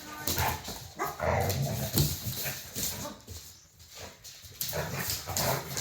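Dog making short, gruff, low barks and grumbling noises in a mock-tough play standoff, in several bouts.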